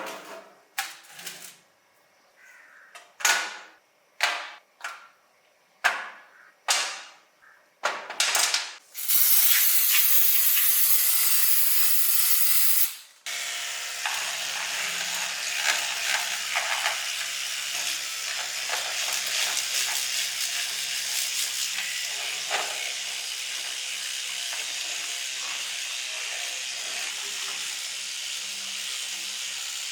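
Hissing spray: about ten short bursts, then a loud continuous spray for about four seconds, which gives way to a steady, quieter hiss.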